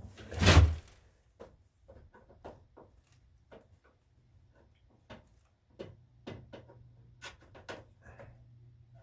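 Hand tools and parts being handled while a fuel line is worked off a small engine: one loud knock about half a second in, then scattered small clicks and taps. A faint steady low hum sets in about halfway through.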